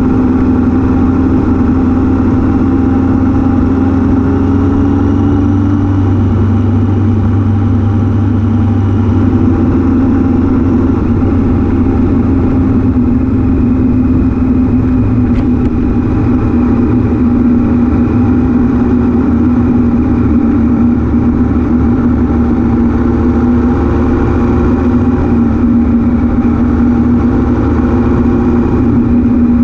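Triumph Daytona T595's three-cylinder engine running steadily on the road, its note shifting slightly in pitch as the speed changes, with constant wind rush over the microphone.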